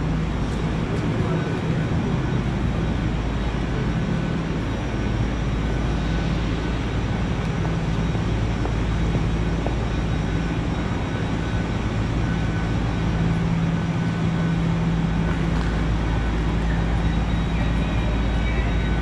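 Steady low drone of trains standing at a station platform, with a constant hum under a wash of station noise.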